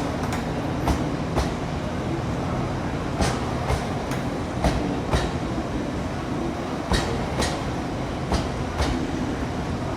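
A train running slowly on the rails with a steady rumble. Its wheelsets click over a rail joint in pairs about half a second apart, one pair every couple of seconds as each bogie crosses.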